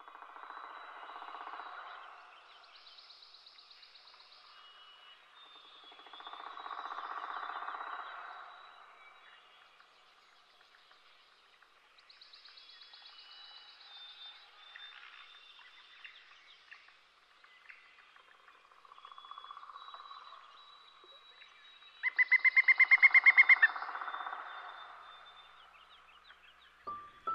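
Birds chirping and trilling over soft, recurring swells of background sound, with a loud, rapid trill near the end.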